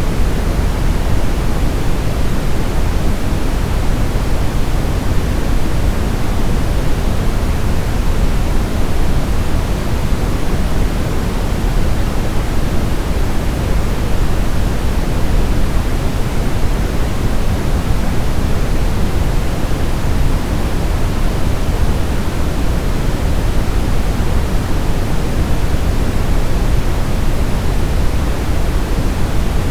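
Steady, unchanging sleep-aid noise: an even hiss weighted toward the low end (pink-type rather than flat white noise), with no breaks or changes.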